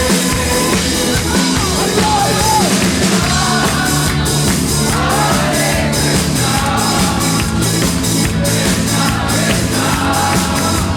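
Loud rock music with a drum kit keeping a steady beat and a singer's voice, partly shouted.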